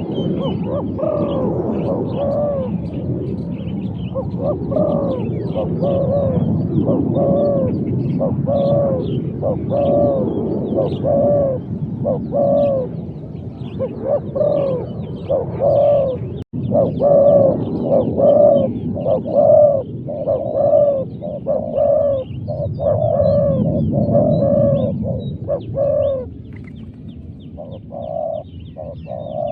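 Spotted doves cooing: a long, loud run of repeated coo notes in quick succession, with small birds chirping faintly high above.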